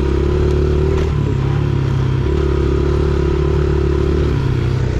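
Small single-cylinder pit bike engine running under way, its pitch stepping up and down a few times as the throttle is worked, with a brief knock about a second in.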